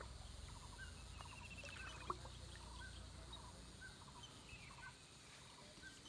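Faint bird calls: a short high note repeated about once a second, with a quick trill near the start and a few lower clucking calls. A single sharp knock about two seconds in.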